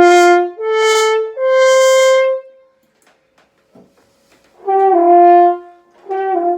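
French horn played on the open horn: three loud notes stepping upward in the first two and a half seconds. After a short pause, a few shorter notes follow near the end.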